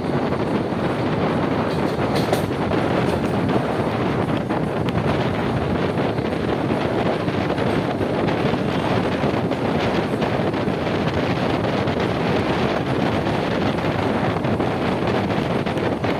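Passenger express train running at speed, heard from an open coach door: a steady rumble of wheels on the rails, with wind buffeting the microphone.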